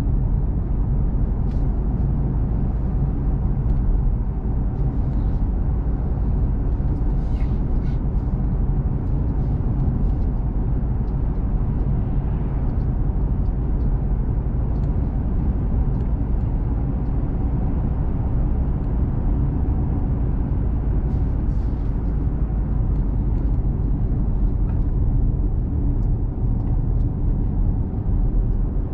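Steady low rumble of engine and tyre road noise inside a small truck's cab while it drives along at an even pace.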